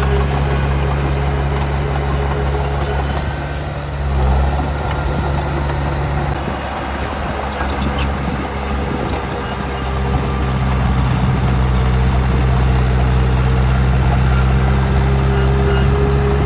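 Heavy diesel engine of earthmoving machinery running at a steady speed. For a few seconds in the middle its steady hum dips and breaks up, then it settles back to an even note.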